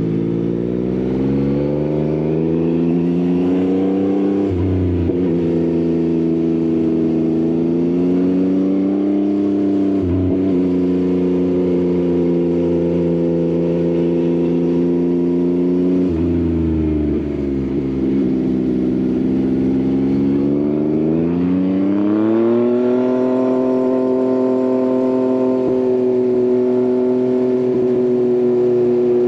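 Yamaha XSR900's inline three-cylinder engine through an Akrapovič exhaust, pulling hard with the pitch climbing in each gear and dropping at upshifts about 5, 10 and 16 seconds in. It climbs once more and then holds a steady pitch at cruise for the last several seconds.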